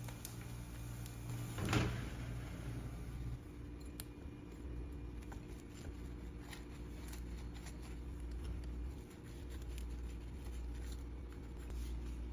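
Quiet handling sounds over a steady low hum: one soft knock a little under two seconds in, then a few light clicks.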